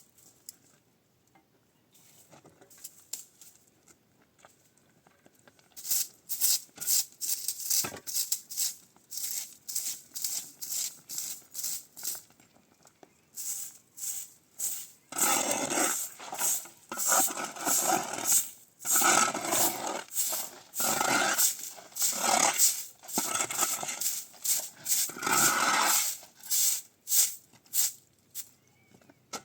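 Repeated rasping, scraping strokes at about two a second, starting some six seconds in and growing louder about halfway through.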